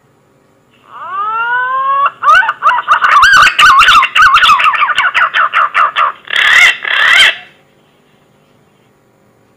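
Green pigeon (punai) lure call: a few rising whistled notes, then a fast run of wavering, warbling whistles, ending in two louder, harsher notes near the end.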